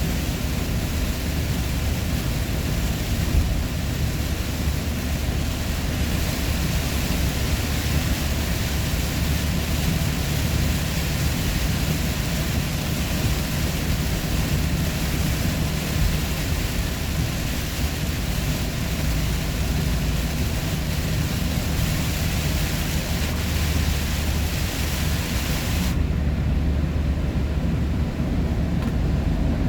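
Steady engine drone and road noise of a vehicle driving along, with a low hum under a broad hiss. The high part of the hiss drops away near the end.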